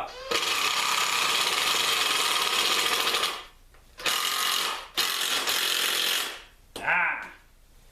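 A power tool working wood in three runs: a long one of about three seconds, then two shorter ones of about a second each. A brief voice follows near the end.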